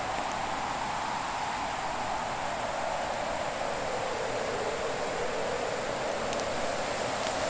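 Winter fireplace ambience: a steady rushing noise whose pitch slowly sinks and rises again, with a few faint crackles from the wood fire.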